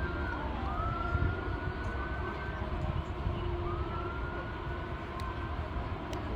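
A siren wailing in repeated slow rising sweeps, three in a row, over a steady background rumble of traffic.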